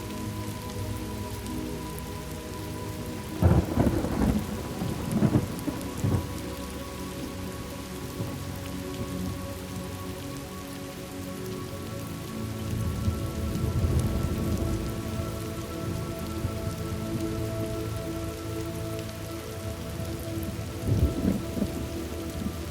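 Thunderstorm: steady rain with thunder. A loud clap about three and a half seconds in is followed by two more cracks, then a longer roll of thunder around the middle and another crack near the end.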